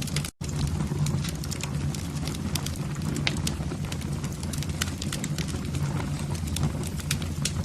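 Wood fire in a fireplace crackling, with frequent irregular sharp pops and snaps over a steady low rumble of the flames. The sound cuts out for an instant about a third of a second in.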